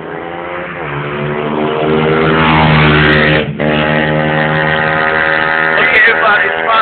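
125cc pit bike engine revving hard and growing louder over the first three seconds. It drops off for a moment about three and a half seconds in, then picks straight back up and runs loud.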